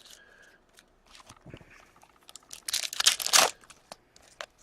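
A foil trading-card pack wrapper being torn open and crinkled, with the loudest burst of tearing about three seconds in.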